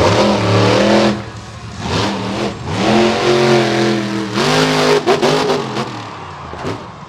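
Monster truck engines revving hard as the trucks race. The pitch climbs and falls with the throttle in several surges, with brief drops about a second in and again past the middle, then dies away near the end.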